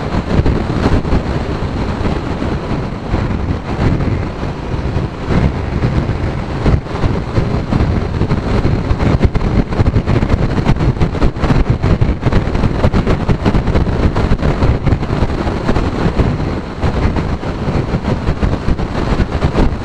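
Heavy wind buffeting the microphone of a motorcycle riding through strong, gusty crosswinds: a loud, fluttering rumble that drowns out the engine.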